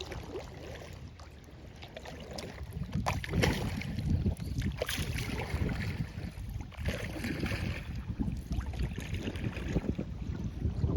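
Kayak paddle strokes splashing and dripping in the lake water at uneven intervals, over a low rumble of wind on the microphone.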